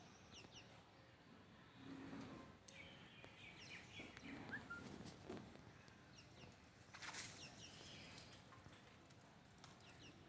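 Faint outdoor ambience with small birds chirping now and then in short, high calls, and a brief burst of noise about seven seconds in.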